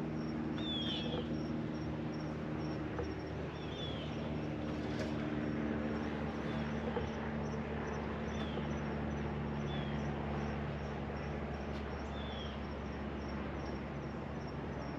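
Outdoor forest ambience: a bird giving short, falling chirps every second or two. Under it are a faint, rapidly pulsing high insect trill and a steady low hum.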